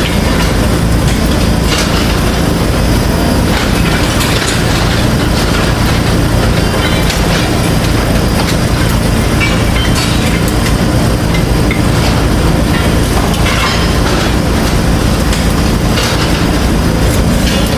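Construction work: a steady machine running, with many irregular knocks and clacks over it.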